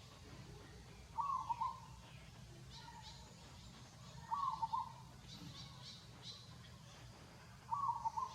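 A bird calling outdoors, the same short call about half a second long repeated three times, roughly every three seconds, with faint high chirps in between.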